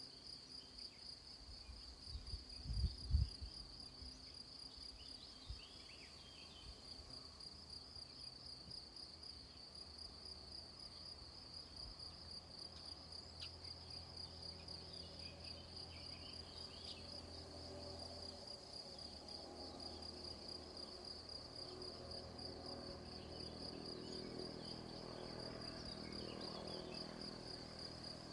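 Crickets chirping in a steady, high, rapidly pulsing trill. A brief low thump about three seconds in.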